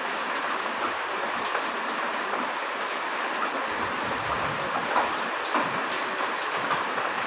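Heavy rain falling steadily, a dense even hiss scattered with small drop and drip ticks.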